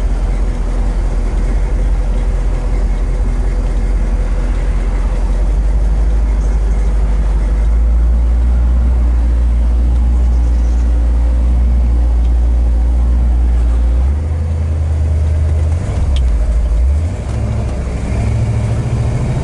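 Crate 350 cubic-inch V8 of a 1967 Chevrolet El Camino running as the car pulls away, heard from inside the cab. The engine note gets heavier about eight seconds in, then its pitch steps up twice in the last few seconds.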